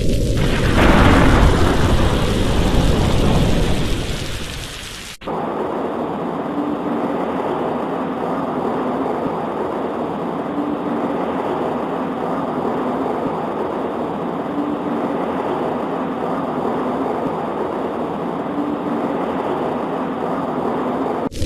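A thunderclap that rolls and fades over about four seconds, then an abrupt cut to steady, even rain on a window.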